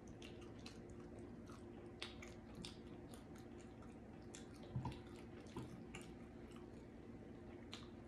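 Close-miked chewing of saucy barbecue rib tips: soft, wet mouth clicks and smacks, scattered and irregular, with a slightly louder one about five seconds in.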